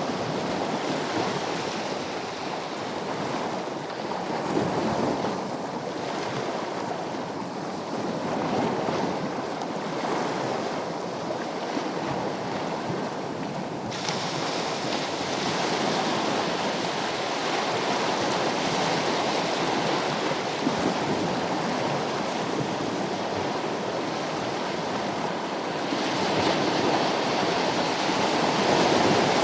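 Sea waves washing in as steady surf, swelling and easing slowly. The hiss turns suddenly brighter about halfway through and again near the end.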